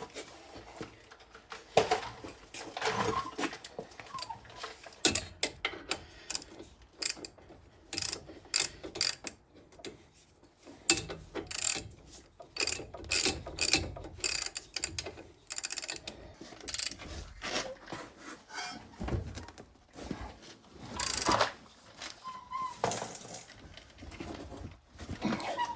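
Hand ratchet wrench clicking in irregular bursts as brake caliper bolts are run down and snugged up, with a few metal knocks in between.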